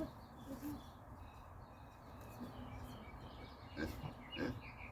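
Faint birds chirping, a few short chirps in the second half, over low background noise, with a couple of soft knocks near the end.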